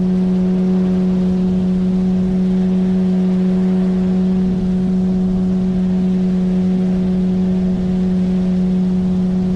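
A 9.8 hp outboard motor on an inflatable boat running at a steady speed: one even, pitched hum with no change in pitch or loudness.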